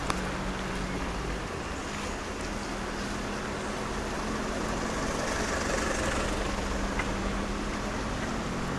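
Outdoor street ambience in the rain: a steady hiss with a faint low hum, swelling slightly around five to six seconds in.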